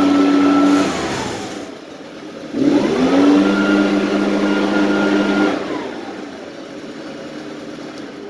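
Echo PB-580T backpack blower's two-stroke engine revved high, dropping to idle about a second in, then revved up again quickly and held for about three seconds before falling back to idle. The engine has a new cylinder and piston kit and is running a little rich for break-in.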